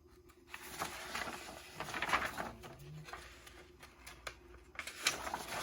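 Rustling and light clicks of plastic model-kit parts and their packaging being handled, in uneven bursts.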